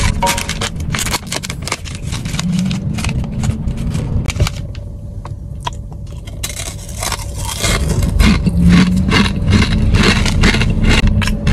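Close-up crunching and chewing of a crispy fried-noodle snack, a rapid irregular run of crunches. They thin out midway, and a fresh bite about six seconds in starts a denser run.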